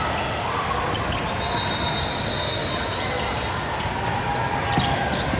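Basketball game in a gym hall: a ball bouncing on the hardwood court among steady crowd and court noise, with scattered short knocks and a thin high steady tone for about three seconds in the middle.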